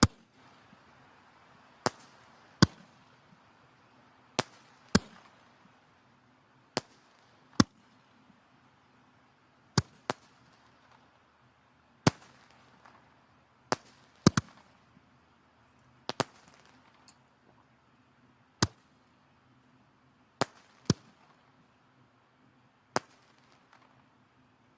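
Firewood burning in a fireplace, crackling: sharp, irregular pops a little under one a second over a faint hiss of the flames.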